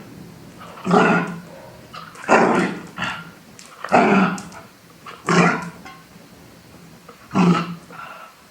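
A dog barking repeatedly, one loud bark about every second and a half, with a couple of weaker ones in between.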